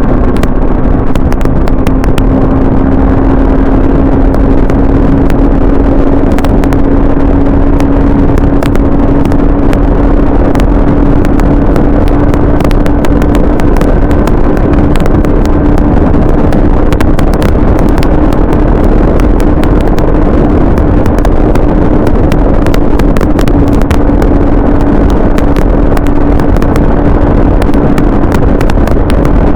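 Motorcycle running at a steady cruising speed, its engine holding one even note, with heavy wind buffeting on the microphone.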